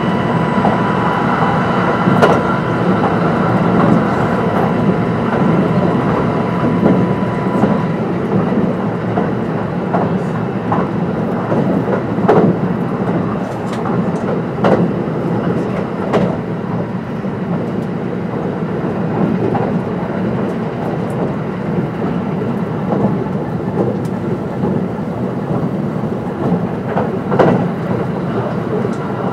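Kintetsu 22600 series limited express train running, heard from on board: a steady rumble of wheels on rail with spaced clicks over the rail joints. A steady high whine is heard for the first eight seconds or so, then stops.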